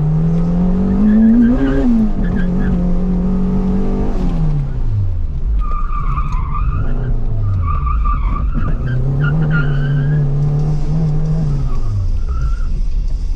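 Acura RSX's turbocharged Honda K-series four-cylinder pulling hard: its pitch climbs, drops back, holds steady and then falls away, and the pattern repeats later. In between, about six to eight seconds in, the tires squeal under cornering load.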